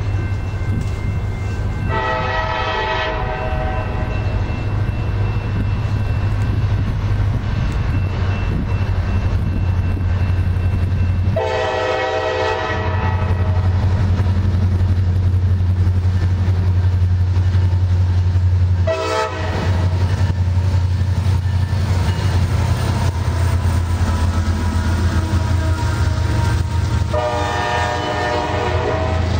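Diesel freight locomotive running close by with its engine drone steady throughout, sounding its multi-chime horn four times in the long, long, short, long grade-crossing pattern.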